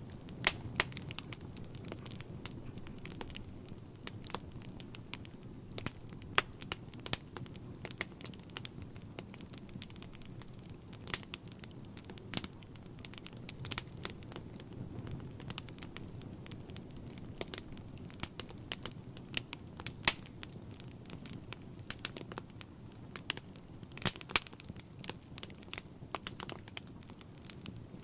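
Wood fire burning in a fireplace, crackling with frequent irregular sharp pops over a low steady noise of the flames.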